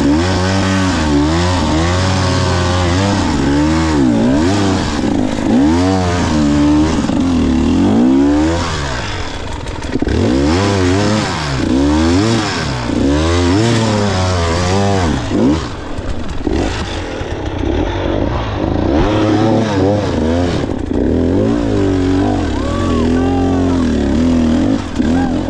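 Two-stroke enduro dirt bike engine revving up and dropping back over and over in short throttle bursts, working under load on a steep hill climb. The revs ease off for a few seconds past the middle, then pick up again.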